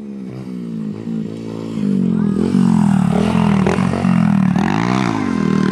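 Pit bike engines revving and accelerating, getting louder about two seconds in, the pitch rising and falling with the throttle.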